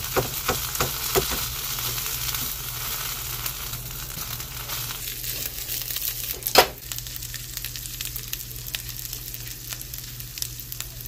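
Pork chorizo sizzling as it fries in a skillet on high heat, with a few utensil taps against the pan in the first second or so and one louder knock about six and a half seconds in. The sizzle eases a little about five seconds in.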